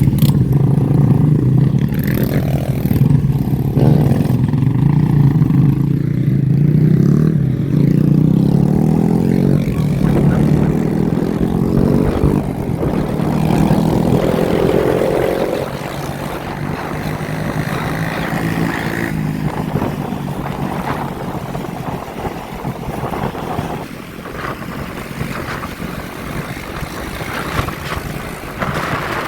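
Motorbike engines running close by, revving with rising pitch as they accelerate, then easing to a lower, steadier level about halfway through.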